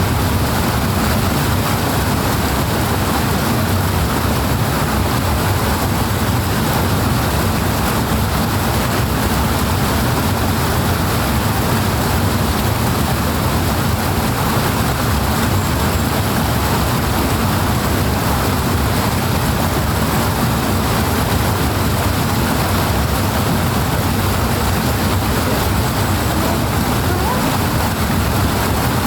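Powerful rushing water, a steady, unbroken flow with no separate splashes or breaks.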